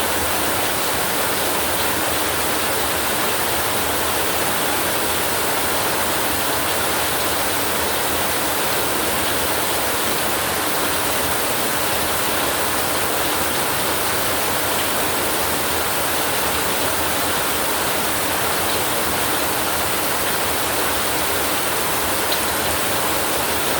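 Steady heavy rain: an even, dense hiss that never changes, with no thunder heard.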